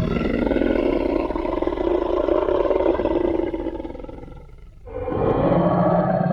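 Tyrannosaurus rex roar sound effect: one long, deep roar fades out, and a second roar starts about five seconds in.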